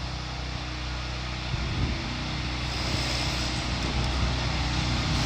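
Machinery engine running steadily with a low hum, gradually getting louder.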